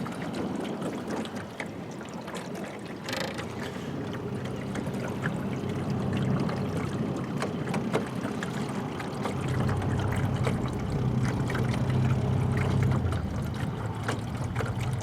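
Small fishing boat under way: a steady low motor hum, louder for a few seconds past the middle, over water splashing and wind on the microphone.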